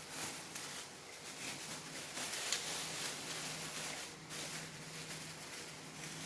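Hands handling parts of an iRobot Roomba robot vacuum during reassembly: soft rustling and scraping, with a sharper click about two and a half seconds in, over a faint steady hum.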